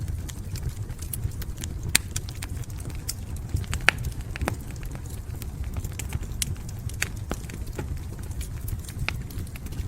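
Wood fire crackling: irregular sharp snaps and pops over a steady low rumble of burning, with two louder pops about two and four seconds in.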